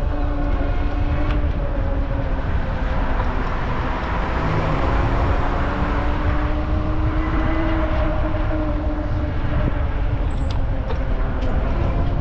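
Wind rumble on the microphone while riding an e-bike through city traffic, with a steady motor hum that drifts slightly in pitch. A brief high chirp about ten seconds in.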